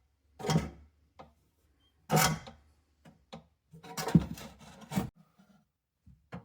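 Irregular knocks, scrapes and rubbing of things being handled, in separate short bursts with gaps between them; the loudest is about two seconds in.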